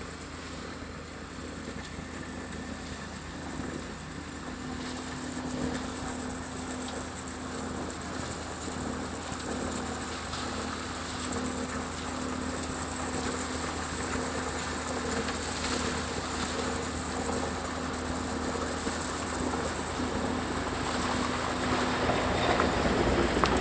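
Engine of a piece of road construction machinery running steadily with a low, constant hum, growing gradually louder and loudest near the end.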